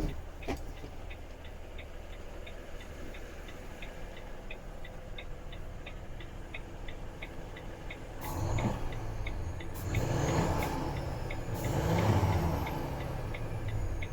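Volvo FH 460's 13-litre six-cylinder diesel idling, then revved three times near the end, a high whistle rising and falling with each rev. A steady ticking of about three a second runs under it.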